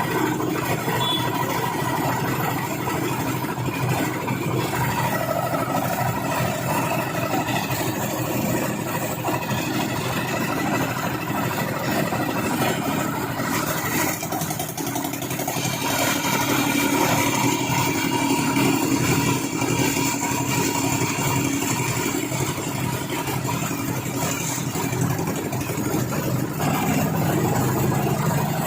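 An engine running steadily without a break, growing a little louder about halfway through.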